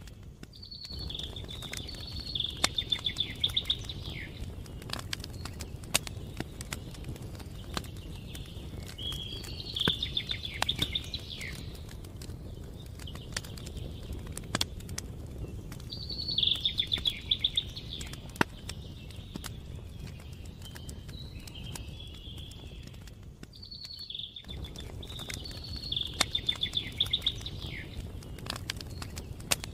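Campfire crackling with frequent sharp pops over a low steady rush, while a songbird repeats a short song phrase four times, each ending in a rapid trill.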